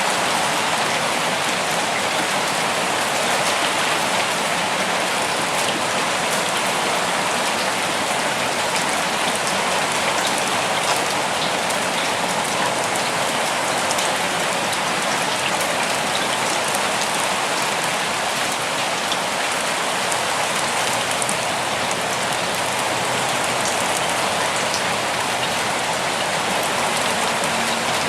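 Steady rain falling, an even hiss of drops with fine patter and ticks in the upper range.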